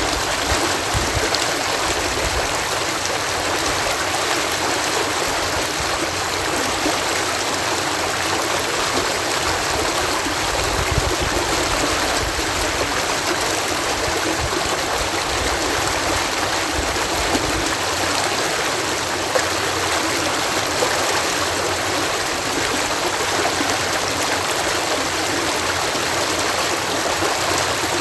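Water pouring steadily over a canal lock, a continuous even rush with no change.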